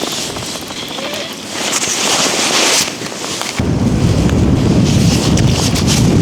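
Strong wind blowing across the ice and buffeting the microphone: a rushing hiss at first, then about three and a half seconds in a heavy low rumble of wind on the mic sets in abruptly.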